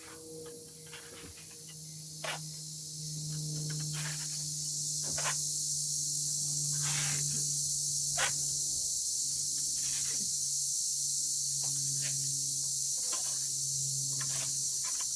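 A steady high hiss over a low, even hum, with scattered short clicks and scrapes; the hiss swells about three seconds in and stops abruptly at the end.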